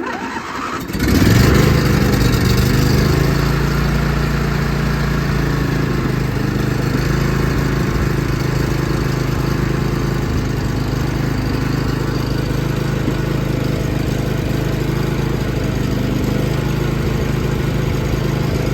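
John Deere LA145 riding mower engine starting from cold: a brief crank, then it catches about a second in and runs steadily.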